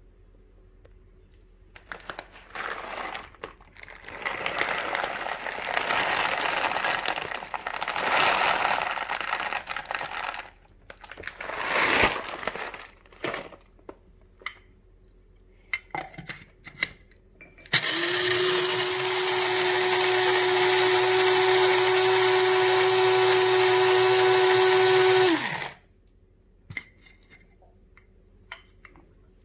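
Electric coffee grinder grinding coffee beans: a loud, steady motor whir for about eight seconds that stops sharply, preceded by several seconds of irregular rattling and rustling as the beans are handled.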